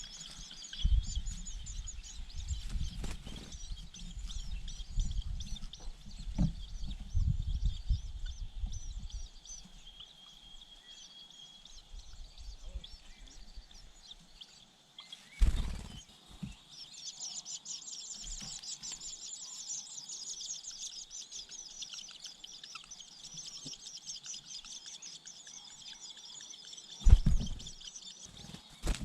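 Outdoor bird calls with fast, high chittering that grows denser about halfway through, over a low rumble in the first third. Two sharp thumps cut in, one about halfway and one near the end.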